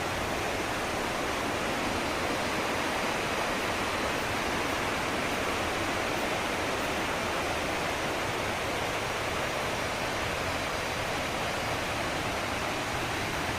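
Steady, even rushing noise with no breaks or changes, like running water.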